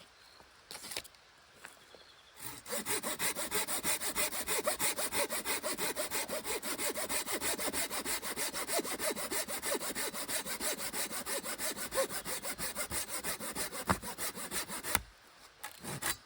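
Hand saw cutting through wood in quick, even strokes, starting about two and a half seconds in and stopping near the end.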